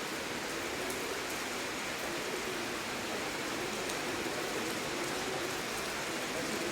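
Steady heavy rain falling, a dense even hiss with faint scattered drip ticks.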